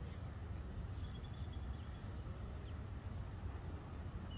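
Steady low outdoor rumble. Near the end a bird gives a sharp whistled call that falls in pitch.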